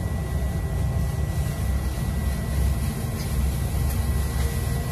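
Steady low rumble of a train running, heard from inside the driver's cab, with a thin steady whine above it.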